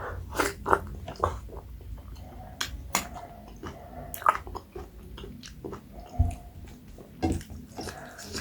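Close-miked chewing and wet lip-smacking of a person eating, with irregular sharp smacks and clicks as the food is bitten and chewed.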